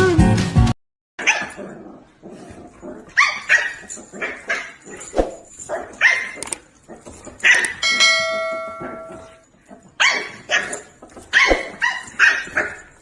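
A dog barking repeatedly, single short barks and quick pairs a second or two apart. About eight seconds in, a steady ringing tone sounds under the barks for a second and a half.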